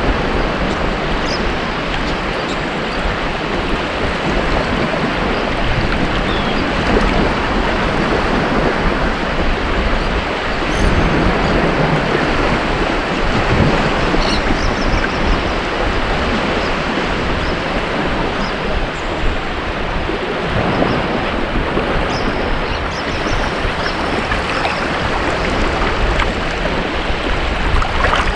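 Ocean waves breaking and washing up a beach, a steady rushing surf that swells and eases slightly.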